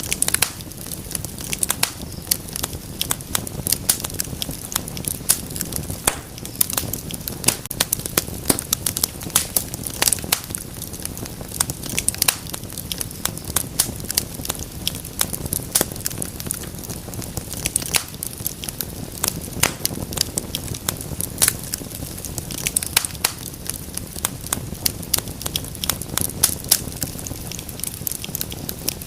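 Wood fire burning in a fireplace, with frequent sharp irregular crackles and pops over a steady low rumble and hiss of the flames.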